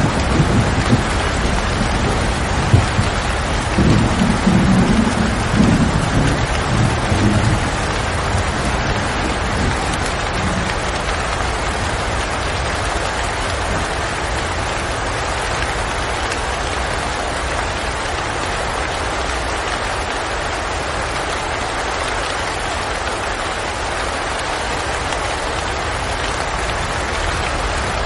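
Steady heavy rain, with a low thunder rumble that swells in the first few seconds and dies away by about ten seconds in.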